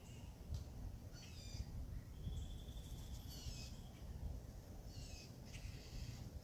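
Wild birds calling and singing, several short calls and one longer whistled note that slides down partway through, over a steady low rumble.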